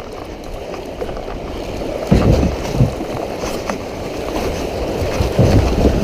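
Rushing whitewater around a kayak running rapids, growing louder, with heavy low buffeting thumps about two seconds in and again near the end.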